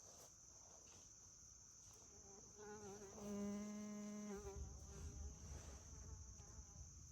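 Faint, steady high-pitched chorus of crickets or similar insects. About two and a half seconds in, a fly or bee buzzes close by for around two seconds.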